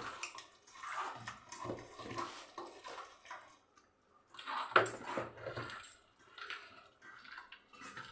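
Hands mixing raw chicken pieces in a wet spice and lemon-juice marinade in a bowl: irregular squelching and sloshing in short bursts, with a brief pause about four seconds in.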